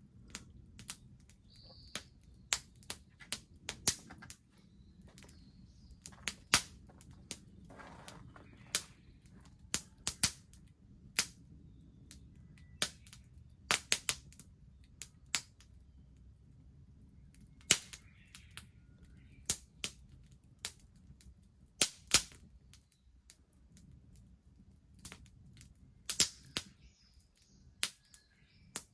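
Wood bonfire crackling: irregular sharp snaps and pops, some much louder than others, over a low steady rumble of the burning fire.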